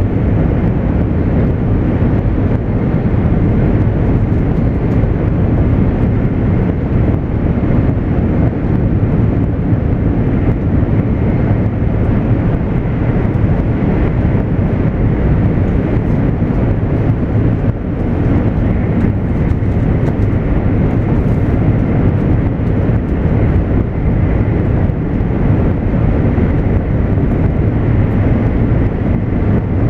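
Interior running noise of a JR East 200 series Shinkansen at speed: a loud, steady low rumble of wheels on rail and rushing air, with a faint high hum above it.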